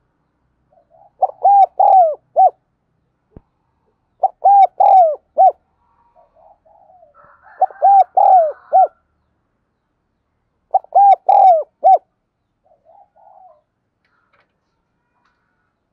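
Spotted dove cooing: four repeated phrases of three or four low, arched coo notes, about three seconds apart, with faint scratchy sounds between them.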